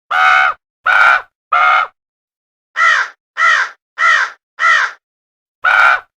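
A crow cawing: harsh, loud caws in quick series, three, then a pause and four more, with another starting near the end.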